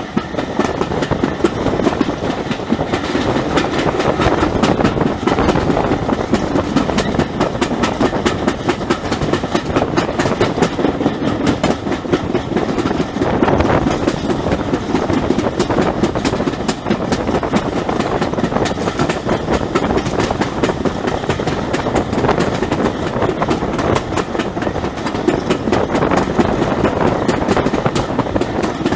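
Passenger train carriages running along the track, heard from an open carriage window: a steady rumble of wheels on rail with a continuous rapid clatter of clicks.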